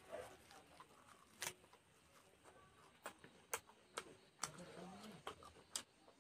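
Quiet mouth sounds of someone chewing a mouthful of raw leafy greens: a scatter of short, sharp wet smacks and clicks, irregularly spaced about half a second to a second apart.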